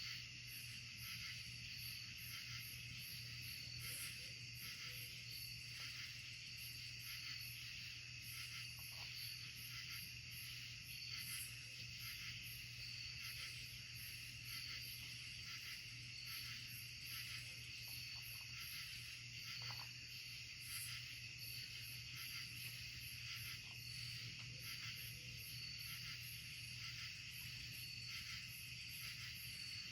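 A chorus of night insects chirring steadily, with fast, evenly repeating high pulses over a continuous shrill drone. Beneath it runs a faint, steady low hum.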